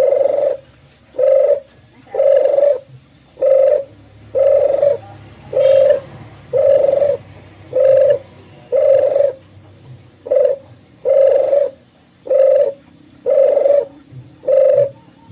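Dove cooing: a long run of short, low coos, about one a second.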